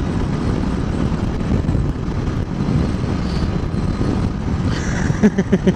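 Motorcycle running at road speed with heavy wind noise on the rider's microphone. About five seconds in, a fast, even pulsing starts, roughly six beats a second.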